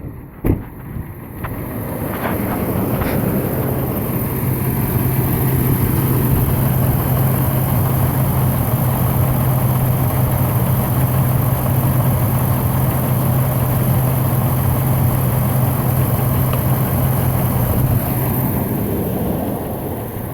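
A 2005 Dodge Dakota's 4.7-litre V8 running with a steady, even drone that builds over the first few seconds and falls away near the end. A few sharp clicks come right at the start.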